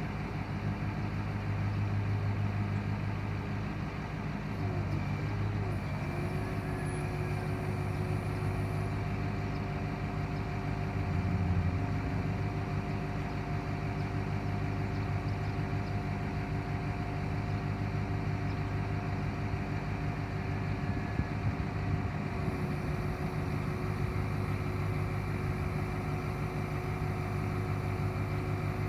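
1990 Ford C8000 bucket truck's engine running steadily, with a whine over it that wavers in pitch for the first several seconds and then holds steady.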